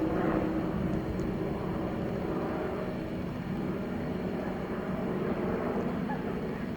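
A steady mechanical drone with several held low tones, typical of an engine running.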